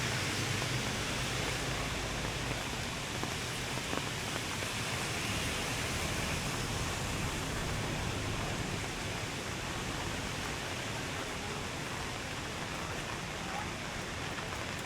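Steady rain falling, an even hiss. A vehicle's low engine hum fades out in the first few seconds.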